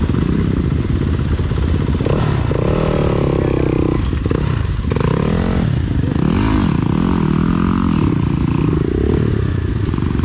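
Enduro dirt bike engine running hard and revving up and down in several quick swells.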